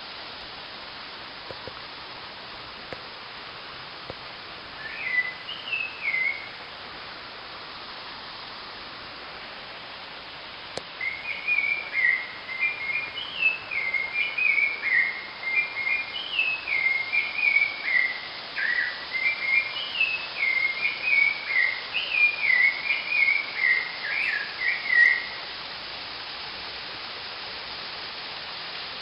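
Steady rush of a waterfall, with a clear whistled melody of quick rising and falling notes: a short phrase about five seconds in, then an unbroken run from about eleven seconds until about twenty-five seconds.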